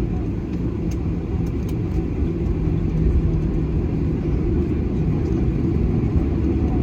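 Cabin noise inside a Boeing 737-800: a steady low rumble from its CFM56 jet engines and airframe, growing slightly louder near the end.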